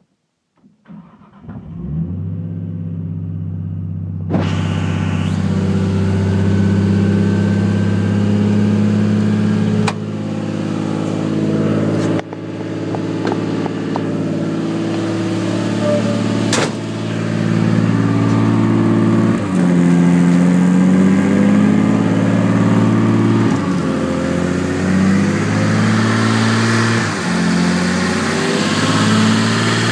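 Nissan RB25DET 2.5-litre turbocharged inline-six starting up for the first time on its stock ECU: it cranks and catches about a second in, then idles steadily and is not revved. The level steps up about four seconds in, and the pitch dips briefly now and then.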